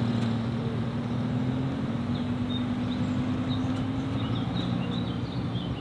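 A car engine running steadily at low revs, its pitch drifting slightly upward, with short faint high chirps in the second half.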